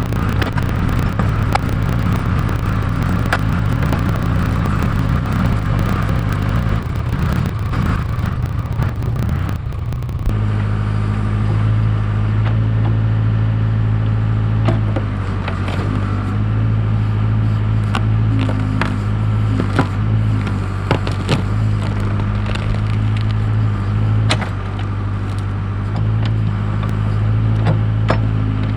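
Case 580K backhoe's four-cylinder diesel engine running steadily while it digs. Scattered sharp knocks and cracks sound over it, and the engine note changes abruptly about ten seconds in.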